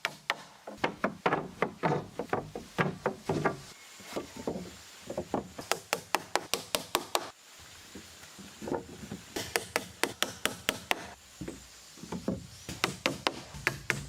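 A hand tool striking wood in quick runs of sharp knocks, about three or four a second, with several short breaks.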